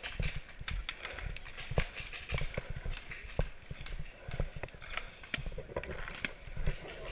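Footsteps at a steady walk, with scattered sharp clicks and rattles.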